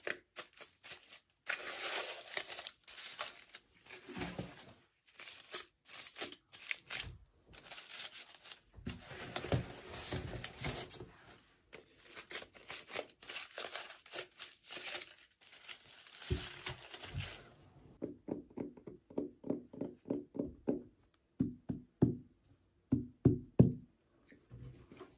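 Plastic packaging crinkling and tearing as a miniature toy is unwrapped. Near the end this gives way to a run of quick knocks and taps of small hard pieces.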